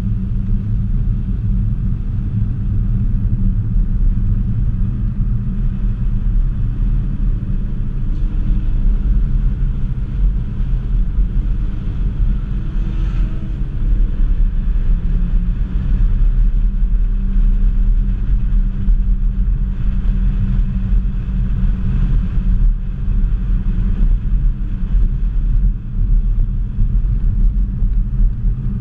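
Ford Focus ST's turbocharged 2.0-litre four-cylinder engine running hard on track, heard from inside the cabin as a continuous low-pitched drone whose pitch drifts up and down as the car accelerates and lifts.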